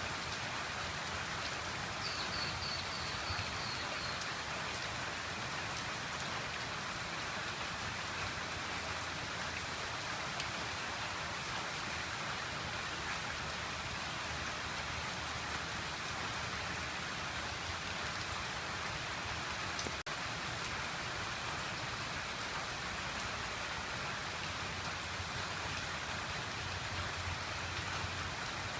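Steady rainfall hissing and pattering without a break, with a brief run of high chirps about two seconds in.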